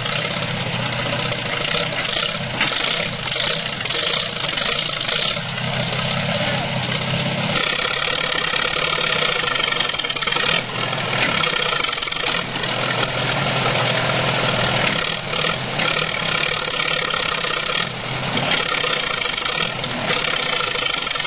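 A vehicle engine running steadily, its sound changing about seven and a half seconds in.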